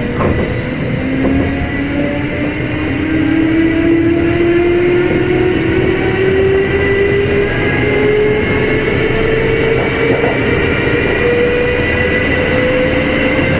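Kintetsu 2610 series motor car's traction motors and gears whining steadily higher in pitch as the train accelerates, over the rumble of the wheels on the rails.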